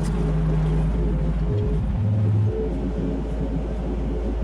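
Mini excavator's diesel engine running steadily, its pitch shifting about two seconds in, then settling again.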